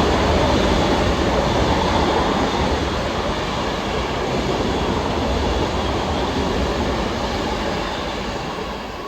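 Long Island Rail Road train running past on the tracks, a dense rumble and rush that is loudest at first and fades away near the end as the train moves off.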